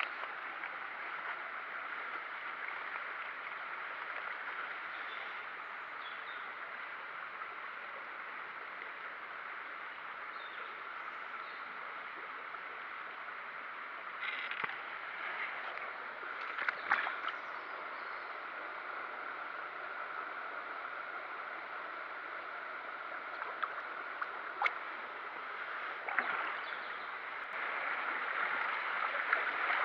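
Steady rush of flowing stream water, with a few faint clicks and knocks around the middle and near the end.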